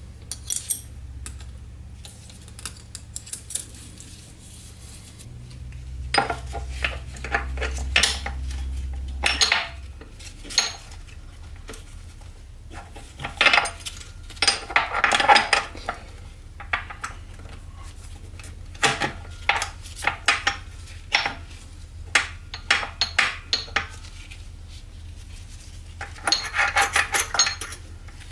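Metal parts clinking and clattering against each other as they are handled, in irregular clusters, over a steady low hum.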